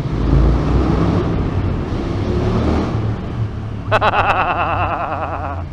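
KTM motorcycle engine pulling hard through a road tunnel, echoing, with a loud low rumble in the first second. About four seconds in, a wavering high pitched tone joins it and keeps going.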